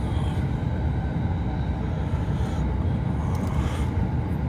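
Steady low rumble of an electric commuter train running at speed, heard from inside the passenger car.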